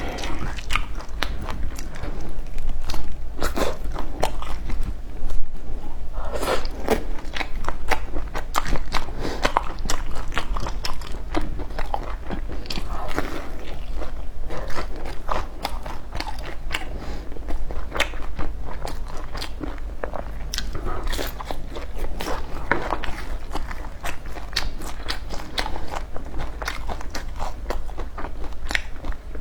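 A person biting and chewing crunchy food close to the microphone, with many irregular crisp crunches and crackles.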